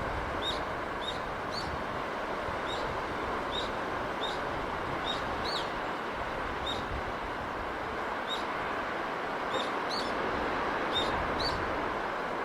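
Steady rushing sea and breeze noise, with a small bird giving short, high chirps over it, a little more than one a second at irregular intervals.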